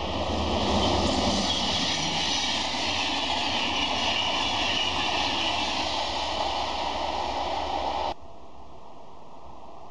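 An electric-hauled double-deck InterCity passenger train passing close at speed: a steady rush of wheels on rails and air, loudest about a second in. It cuts off abruptly about eight seconds in, leaving a quieter steady hiss.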